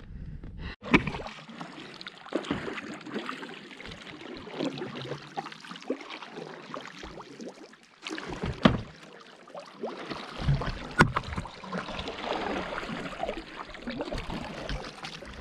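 Canoe paddling in lake water: paddle strokes splashing and dripping, with a few sharp knocks.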